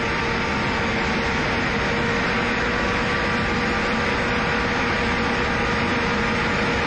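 MiG-29 jet engine running steadily: a constant rushing noise with a steady whine held at one pitch.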